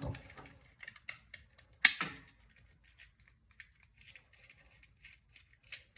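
Scattered small clicks and taps of hard objects being handled, with one sharper knock about two seconds in.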